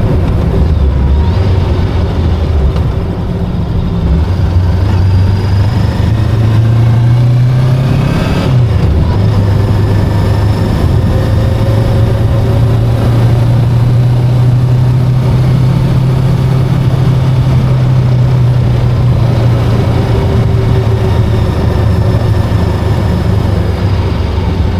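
Voge 525DSX motorcycle's parallel-twin engine running while riding at a steady pace, its revs climbing and then dropping sharply about eight seconds in before settling back to a steady drone.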